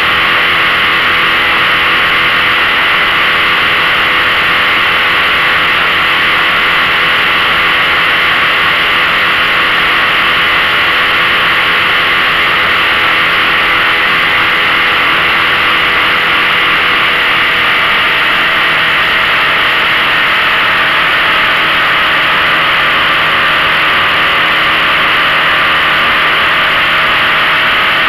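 15 hp outboard motor running steadily under load, towing a tub behind a 14 ft V-bottom boat. The pitch shifts slightly a little past halfway.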